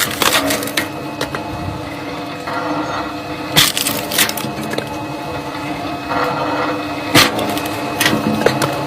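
Firewood being split by machine: a steady engine hum runs underneath while logs give sharp splitting cracks, three or four times, each after a few seconds of pushing.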